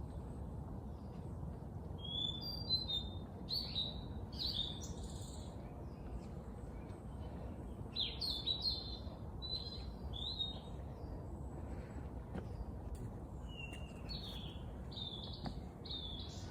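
Small songbirds chirping and trilling in short high phrases that come in clusters with pauses between them, over a steady low background hiss.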